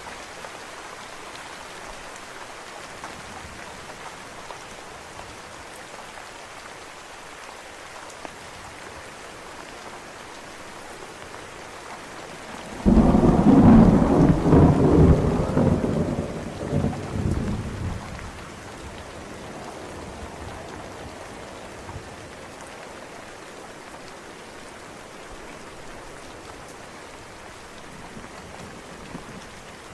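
Steady rain falling, with one thunderclap breaking sharply about a third of the way in and rumbling away over about five seconds.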